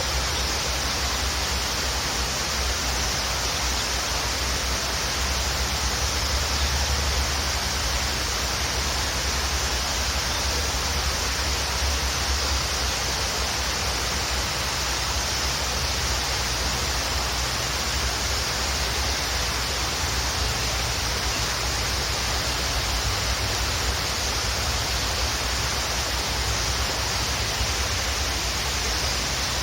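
Waterfall: a steady, even rush of falling water with a deep rumble underneath.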